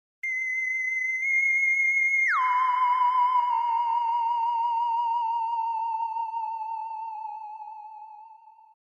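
A high, whistle-like sound-effect tone holds steady for about two seconds, drops sharply to about half its pitch, then wavers as it sinks slowly and fades out.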